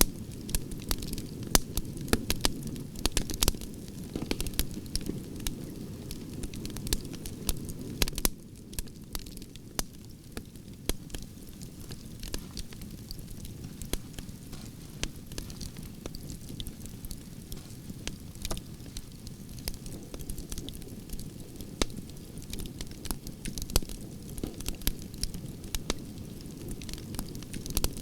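Campfire of burning branches crackling: frequent irregular sharp pops and snaps over a steady low rush of flame, which eases a little about eight seconds in.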